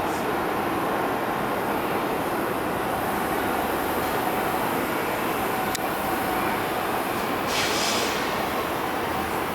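R188 subway train on the elevated 7 line pulling into the station: a steady rumble of wheels on the rails with a faint thin tone over it, a sharp click about six seconds in, and a short hiss about a second and a half later.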